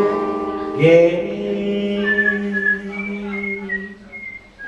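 A man singing to backing music, holding out the last word of a line, 'forget'; about two seconds in a whistled tune of several short high notes plays over the held music, and the sound falls away near the end.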